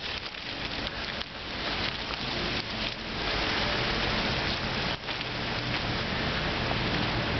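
Steady rushing outdoor noise, like rain or sleet falling, growing louder about three seconds in, with a brief dip about five seconds in.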